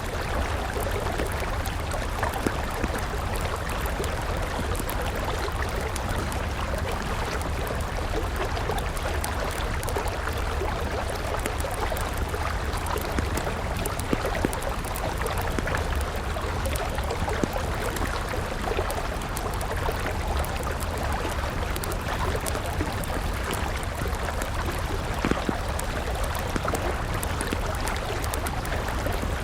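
River water flowing steadily, with the crackle and snap of a wood campfire, scattered small pops throughout.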